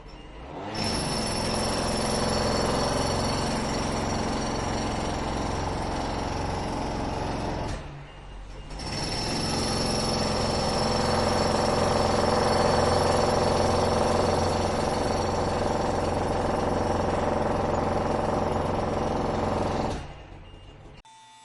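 Loud, steady mechanical running noise with a few fixed whining tones, in two long stretches separated by a short break about eight seconds in.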